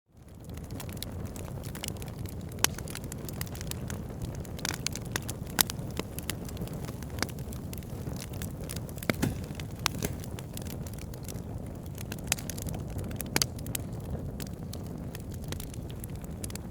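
Wood fire burning: a steady low flame noise with frequent crackles and several louder sharp pops of burning logs. It fades in from a brief dropout at the very start.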